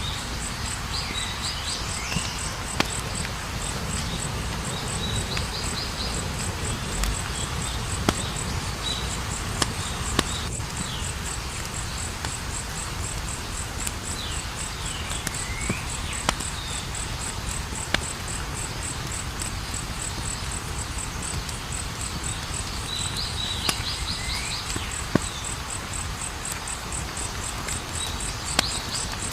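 Campfire burning with a low steady rush and sharp crackles and pops every second or two, while a cricket chirps in a fast, even, high-pitched pulse throughout. A few short chirping calls come now and then.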